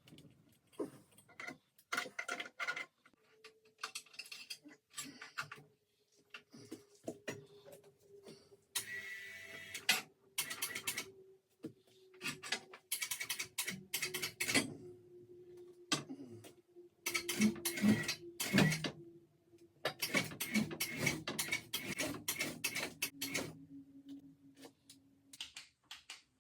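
Small electric winch running under load, its motor hum slowly dropping in pitch, with many irregular metallic clicks and clanks as the heavy lathe shifts.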